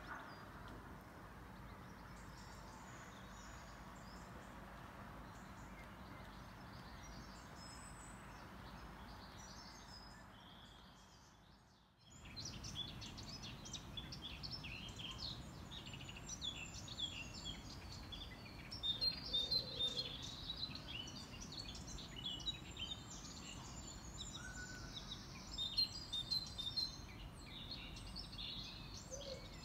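A steady, even outdoor background noise that fades away about twelve seconds in, followed by small birds chirping and calling, many short high calls overlapping, some louder than the rest.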